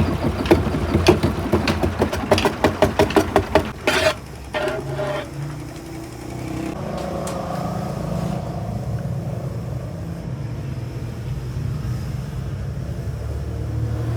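Machinery knocking loudly and evenly, about four knocks a second, that stops about four seconds in. After a few last knocks a steady low engine hum carries on.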